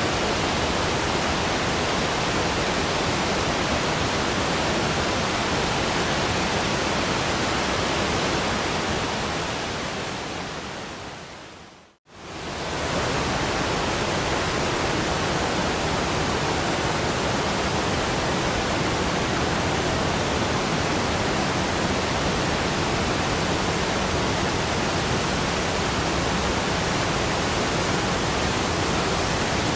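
Rushing waterfall, a steady full roar of falling water. About twelve seconds in it fades out to a moment of silence and then quickly fades back in, the join of a looped recording.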